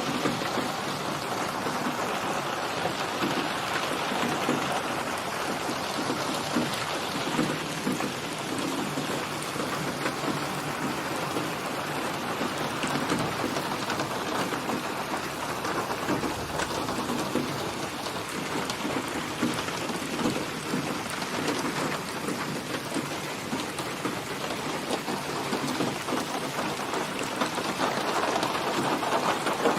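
Steady rain falling, a continuous even patter of drops that keeps much the same strength throughout.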